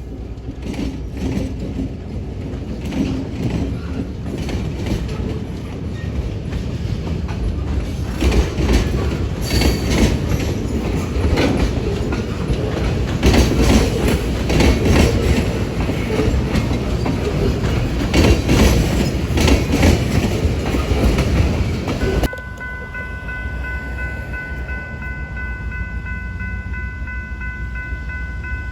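Train passing close by: wheels rumbling on the rails with clickety-clack over the rail joints, louder through the middle. About two-thirds of the way through it cuts off abruptly to a quieter rumble with a steady high-pitched tone.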